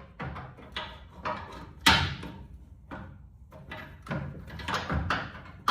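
Irregular metallic clanks and knocks of hand tools and car parts being handled, about a dozen over a few seconds, the loudest about two seconds in.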